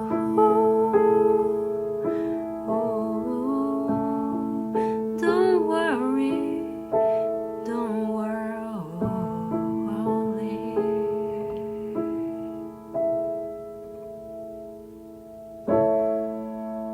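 Piano-style keyboard playing slow, held chords of a song cover, with a woman's voice singing a few wavering notes over it in the middle. Near the end a last chord is struck and left to ring out.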